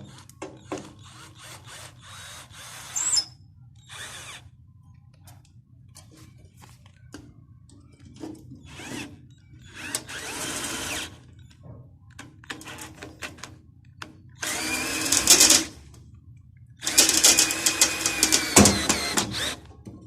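A small handheld power tool run in short bursts of one to three seconds, with clicks and knocks of handling in between, over a faint steady low hum.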